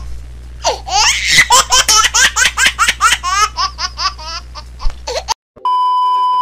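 A run of high-pitched giggling laughter, a dubbed laugh sound effect, that cuts off suddenly about five seconds in. After a brief silence comes a steady test-tone beep of the kind played with TV colour bars.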